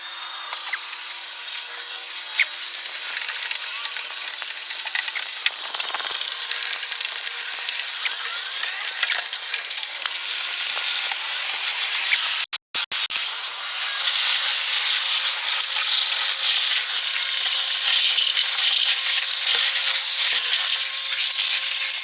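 Pressure washer spraying water onto a truck: a steady, hissing spray that breaks off briefly about halfway through and comes back louder.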